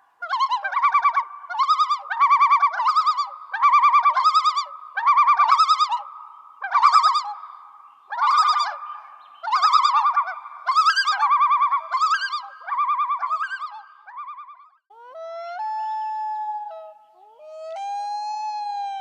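A series of animal calls: short, warbling, high calls about once a second, then from about fifteen seconds in a few longer, steadier calls that slide up at their start.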